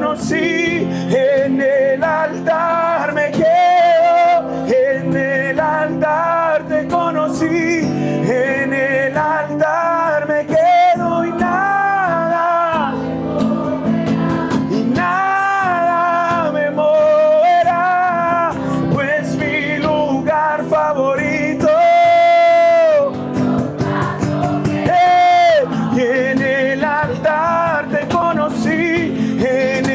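Spanish-language worship song: a voice sings a slow melody over steady band accompaniment, holding long notes a little past the 20-second mark and again around 25 seconds.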